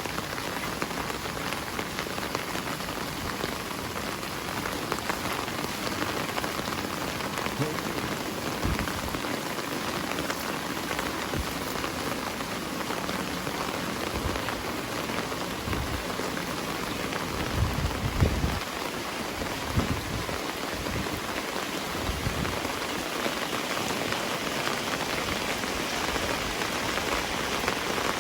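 Heavy rain falling steadily, a dense even hiss of drops on surfaces. A brief low rumble comes about two-thirds of the way through.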